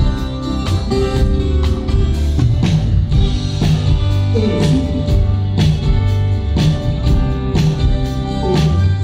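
Band music during a sound check: guitar, bass and drum kit playing with a steady beat, with a few sliding notes in the middle.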